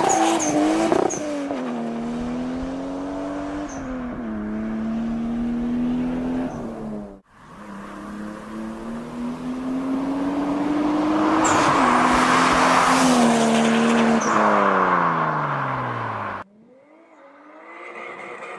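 Toyota Supra MK4's 2JZ-GTE turbocharged straight-six accelerating hard, the engine note climbing and dropping at each gear change, with short high chirps at the shifts. The sound breaks off suddenly twice, and after the second break a quieter engine note rises.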